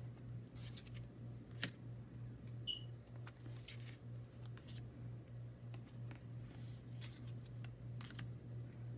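Faint handling of a tarot deck and its packaging: scattered light clicks and short rustles, one sharper click about a second and a half in. Under it runs a steady low hum that pulses a few times a second.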